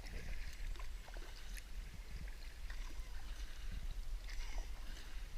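Kayak paddle strokes dipping and splashing in shallow creek water, with small irregular splashes and drips. The sound is muffled by the camera's waterproof case, and a steady low rumble runs under it.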